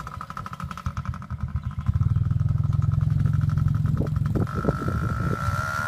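A child's small motorbike running as it is ridden, a steady hum with a whine, getting louder about two seconds in.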